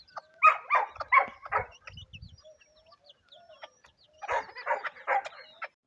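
Short, harsh animal calls in two quick runs of about four each, one starting about half a second in and the other about four seconds in.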